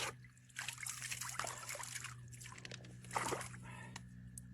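Water sloshing and trickling in irregular small splashes, as of hands washing in shallow river water, the strongest splash about three seconds in. A steady low hum runs underneath.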